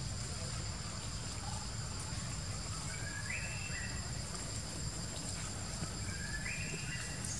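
Outdoor ambience with a steady low rumble and a steady high-pitched hum, over which a bird gives the same short rising call twice, about three seconds in and again about six seconds in.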